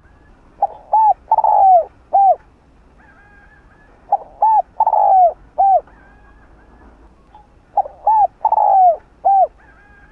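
Spotted dove cooing its song three times, about every three and a half seconds. Each phrase has two short coos, a longer falling coo, then a short final coo.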